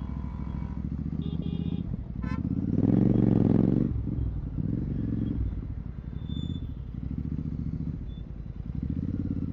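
Royal Enfield Continental GT 650's parallel-twin running through a Red Rooster exhaust with the dB killer removed. The throttle opens for a louder, rising pull about two and a half seconds in, then eases back, and the engine swells again briefly near the end.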